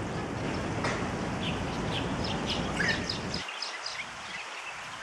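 Small birds chirping in many short, high, overlapping notes, over a low background rumble that falls away for about a second past the middle.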